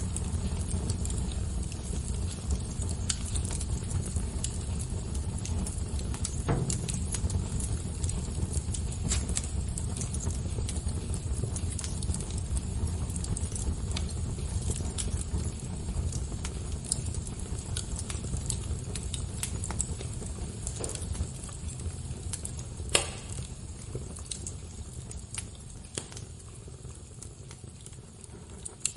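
Wood fire crackling: a steady low rumble of burning with scattered snaps and pops throughout, and one louder pop about three-quarters of the way through.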